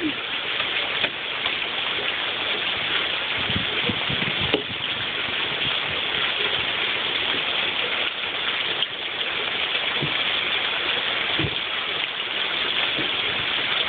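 Steady rain falling, an even hiss, with a few brief low thumps along the way.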